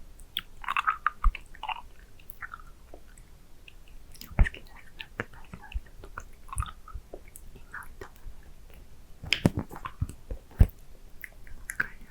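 A hard candy being licked and sucked right at the microphone: wet mouth clicks and smacks at an irregular pace, the loudest cluster coming near the end.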